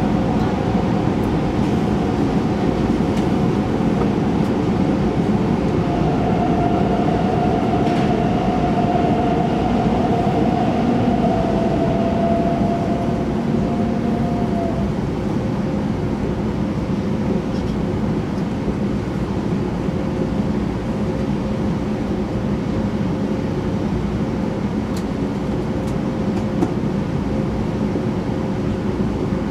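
E2 series Shinkansen running, heard from inside the passenger car: a steady rumble of wheels and running gear with a steady whine. A second, slightly higher whine joins from about six seconds in and fades out around fifteen seconds.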